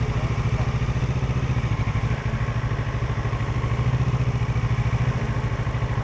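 Parallel-twin motorcycle engine idling with an even, steady pulsing beat.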